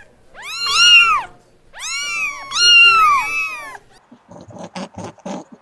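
Domestic cat meowing: three long, drawn-out meows, each rising and then falling in pitch. Near the end come a run of short, low-pitched sounds.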